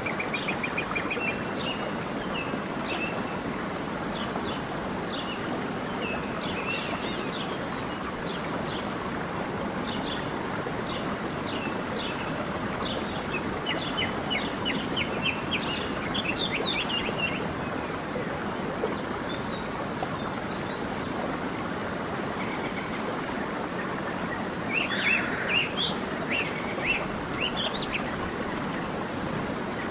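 A stream running steadily, with small birds chirping over it in scattered short runs, busiest midway and near the end.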